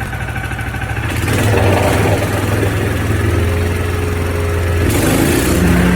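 Gasoline engine of a wood chipper, warmed up with the choke off, running steadily, then speeding up and growing louder about a second in and rising again to a higher pitch near the end.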